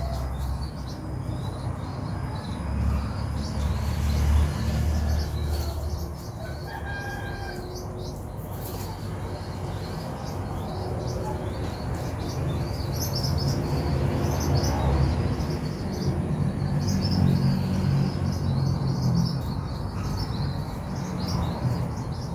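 White-breasted waterhen chicks peeping: many short, high chirps in quick succession, over a low rumble of movement.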